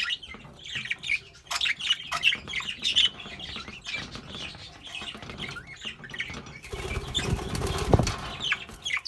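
Budgerigars chirping and chattering in short high calls, with a burst of wing flapping about seven seconds in.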